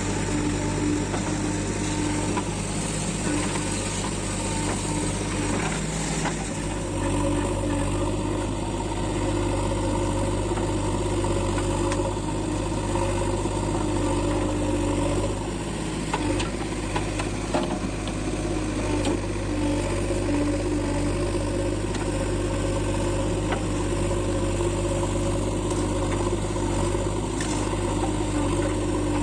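Diesel engines of a JCB 3DX backhoe loader and a Swaraj 355 FE tractor running steadily during soil loading, with small shifts in engine note a few seconds in and again about midway.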